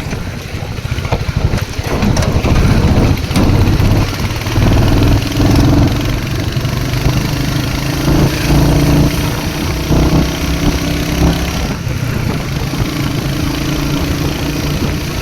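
Royal Enfield Hunter 350's single-cylinder engine running on the move, its note swelling and easing several times as the throttle opens and closes, over a steady rush of road and wind noise.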